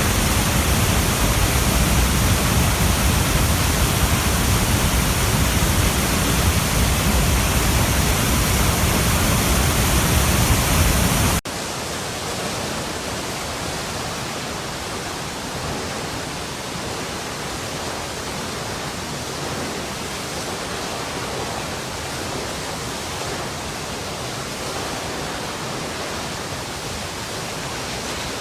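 Running water rushing in a steady, full roar. About eleven seconds in it cuts abruptly to a quieter, thinner rush with less depth, which then continues evenly.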